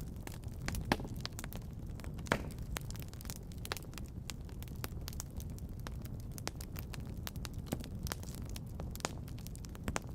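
Wood fire crackling in a fireplace: frequent irregular pops and snaps over a low steady rumble, with two louder pops in the first few seconds.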